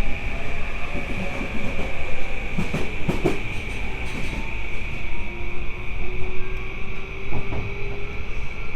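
A JR East E235-1000 series electric train running on rails, with steady rolling noise and a few clacks from the wheels over rail joints about three seconds in. In the second half a faint traction-motor whine rises slowly in pitch as the train picks up speed.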